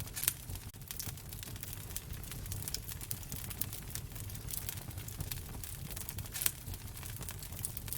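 Wood fire crackling in a fireplace: a steady low rumble of flames with many small snaps and pops, two of them sharper, about a third of a second in and near the end.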